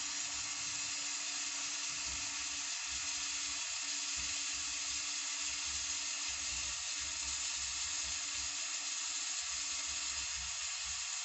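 Oxygen and MAP-gas brazing torch flame hissing steadily, heating a refrigerator's filter-drier tube joint to unsolder it. A faint steady hum runs underneath.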